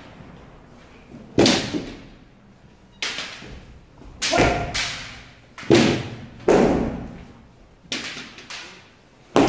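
Kendo practice strikes: bamboo shinai hitting armour and feet stamping on a wooden floor, a series of sharp thuds and slaps roughly once a second, irregularly spaced.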